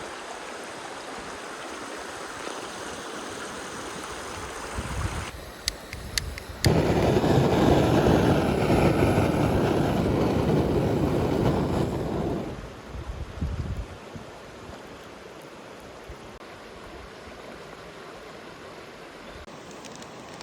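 Stream water rushing steadily. A few sharp clicks come about six seconds in, followed by a much louder stretch of rushing noise lasting about six seconds before it settles back to the steady flow.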